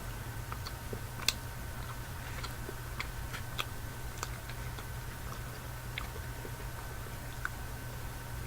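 Close-miked chewing of a chocolate bar: scattered, irregular small mouth clicks over a steady low hum.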